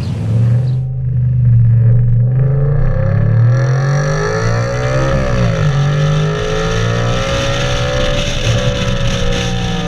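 Car engine running through an aftermarket exhaust, with a steady low note underneath and higher tones that rise and fall in pitch as the revs change.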